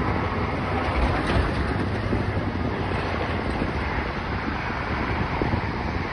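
Wind buffeting the microphone over a steady, low rumble of jet airliner noise.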